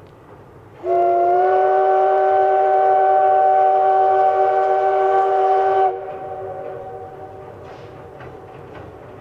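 Steam locomotive whistle giving one long blast of about five seconds, a chord of several tones that slides up slightly as it opens, then stops sharply and echoes briefly. The running noise of the train sits underneath.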